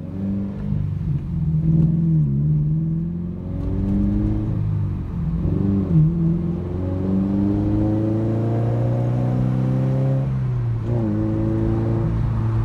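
Scion FR-S's 2.0-litre flat-four boxer engine, heard from inside the cabin through a muffler-delete exhaust, pulling through the gears. The pitch climbs and drops back at each upshift, about two and five seconds in, then holds steady, with another brief dip near eleven seconds.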